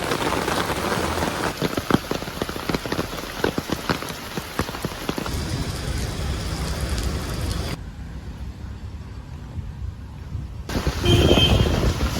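Steady rain falling, with many separate drops ticking on a hard surface. About eight seconds in the sound turns dull and muffled for about three seconds, then a louder sound comes in near the end.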